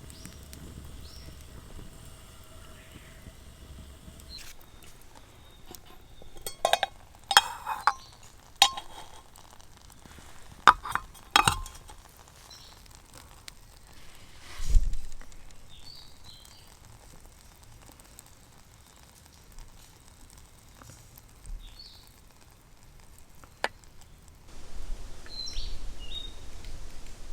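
A series of sharp clicks and clinks, most of them bunched together in the first half, with a heavier knock after them. A few short bird chirps come through in the second half.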